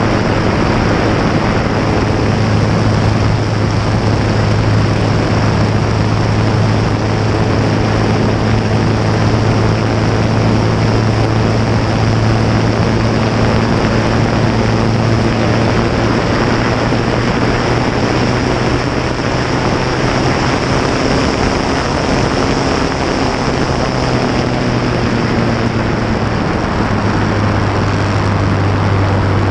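Fournier light aircraft's piston engine and propeller running steadily in flight, heard close up from the cowling with heavy rushing wind. The engine note dips slightly near the end.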